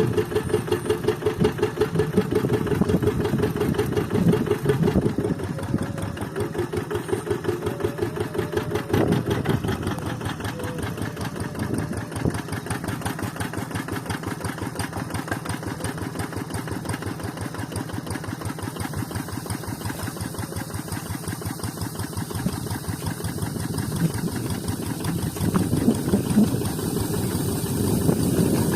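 Kubota single-cylinder diesel engine of a Quick Zeva G3000 hand tractor chugging continuously while it levels a paddy field. It is louder for the first ten seconds or so, softer through the middle, and louder again near the end.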